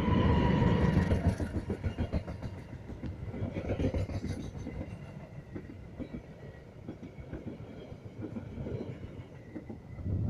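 Train passing through a station, its wheels clattering over the rail joints, loudest at first and fading as it moves away. A steady high tone is heard in the first second or so.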